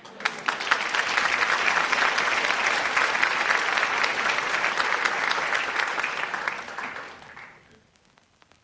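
Audience applauding, a dense patter of many hands clapping that starts right after the song ends and dies away about seven to eight seconds in.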